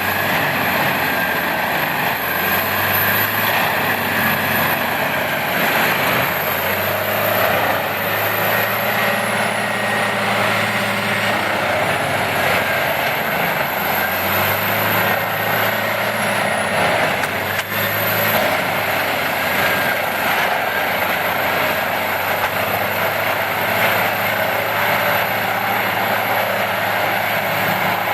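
Heavy forestry wood-processing machine running steadily: a continuous loud engine and mechanical din with a faint high whine above it.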